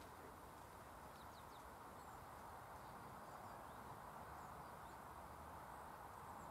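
Near silence: faint outdoor background hiss with a few short, high bird chirps scattered through it.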